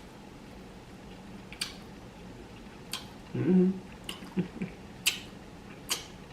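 Close-up mukbang eating sounds: sharp wet mouth clicks and lip smacks every second or so while chewing, with a short hummed "mm" about three and a half seconds in.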